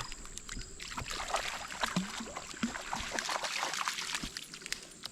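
Floodwater moving and lapping, a steady hiss with many small irregular splashes and clicks.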